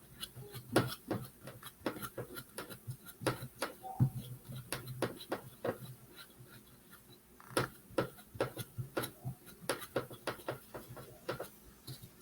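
Irregular light taps and clicks of hand painting work: a paintbrush dabbing and paint pots and tools handled on a work table, several a second at times.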